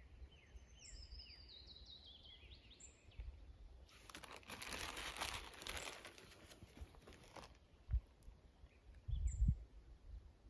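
A songbird sings one descending phrase of quick high notes near the start. Then, from about four seconds in, comes a few seconds of crinkly rustling, followed by a couple of low bumps near the end.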